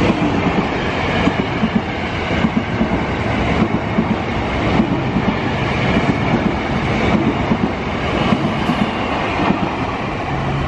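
Ex-Tokyo Metro 6000 series electric commuter train passing close by at speed, a steady loud rumble with its wheels clattering over the rails.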